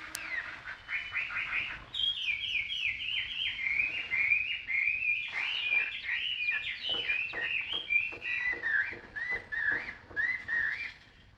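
Caged songbird singing a fast, continuous run of whistled chirps, the notes sliding up and down. There is a brief pause about two seconds in, and the song stops just before the end.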